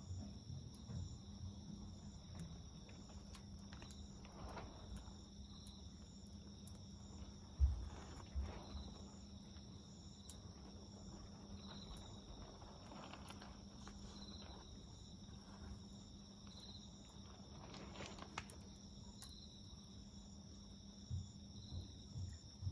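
Crickets and other insects chirping: a steady high trill layered with chirps that repeat every second or two. Short crackles from a wood campfire and a low dull thump about eight seconds in.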